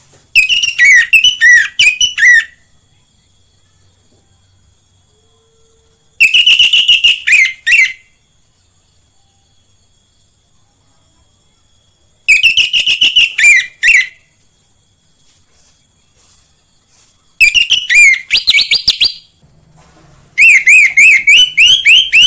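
Orange-headed thrush singing: five loud phrases of quick, sliding whistled notes, each lasting about two seconds, with pauses of a few seconds between them.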